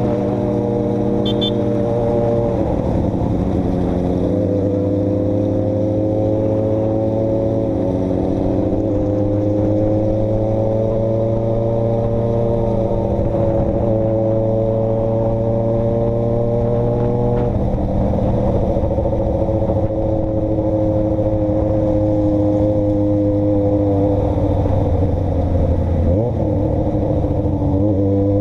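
A road vehicle's engine running steadily under way, its pitch easing up and down with a few shifts in speed or gear.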